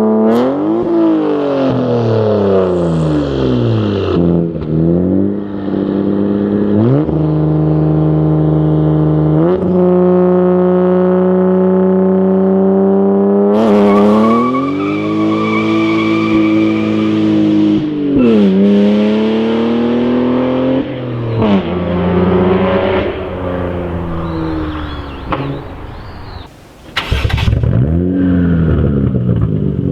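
Toyota JZX90 Mark II's 1JZ-GTE twin-turbo straight-six on a dual exhaust, running on the road. The revs fall away, then step up sharply several times and hold steady between steps. Near the end they drop briefly before a short loud noisy burst, and the engine picks up again.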